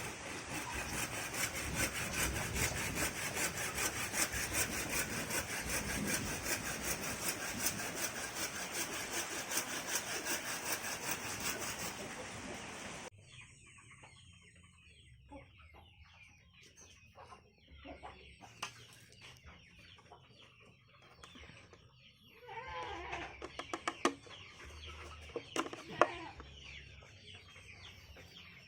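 A loud, dense rattling noise with a fast even pulse that cuts off suddenly about halfway through, followed by chickens clucking with a few sharp knocks.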